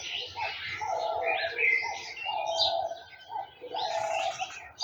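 Garden birds: a dove cooing in short low notes about every second and a half, over the busy chirping and trilling of several small songbirds.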